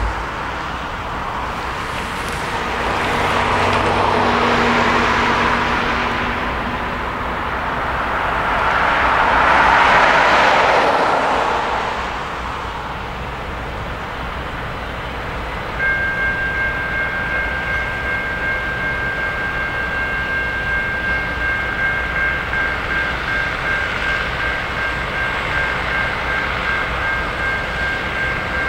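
Herzog welded-rail train rolling slowly past, its wheel and car noise swelling twice in the first half. A little past halfway a steady, slightly pulsing two-tone electronic warning signal starts and keeps sounding.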